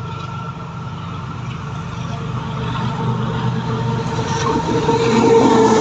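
A train approaching, its running noise growing steadily louder, with a steady low hum and a few steady tones above it.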